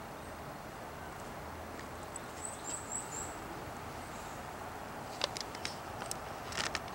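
Outdoor garden ambience, with a small bird giving four quick, very high chirps a little over two seconds in, then a few sharp ticks near the end.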